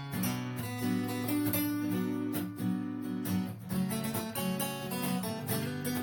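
Acoustic guitar (violão) playing a sertanejo melody solo, plucked melody notes over a steady bass line.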